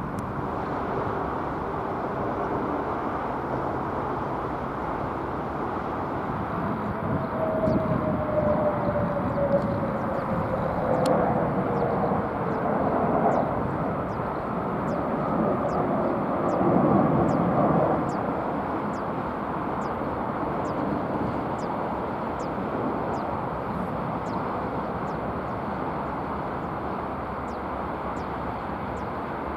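Jet aircraft passing, its engine noise swelling through the middle with a whine that falls in pitch as it goes by.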